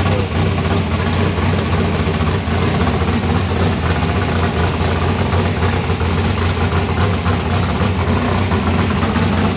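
Rebuilt 305 cubic-inch small-block Chevy V8 running steadily through open headers, loud and even. The ignition timing is set too far advanced, reading about 42 degrees against a 38-degree target.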